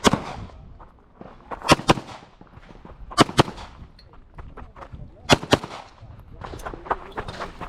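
Pistol shots fired in quick pairs: a shot at the start, then three double-taps about a second and a half apart, with lighter knocks near the end.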